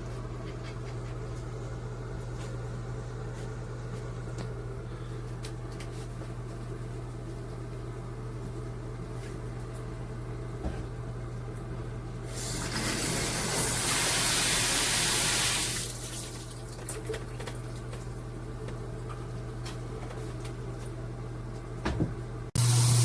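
Filtered shower head running with a steady rush of water over a low steady hum. From about 12 to 16 seconds in, the spray gets louder and hissier, then settles back.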